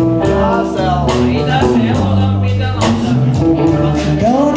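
Live band music led by guitar over a bass line, with regular sharp percussive hits and bent, sliding guitar notes near the end.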